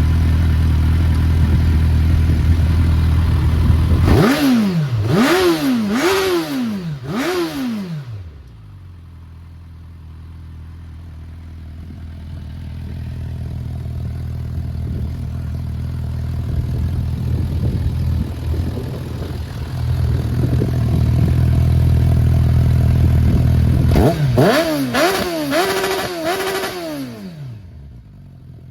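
Suzuki Bandit 650's inline-four engine breathing through an aftermarket Black Widow exhaust: idling steadily, blipped four times in quick succession about four seconds in, settling back to idle, then blipped four more times near the end.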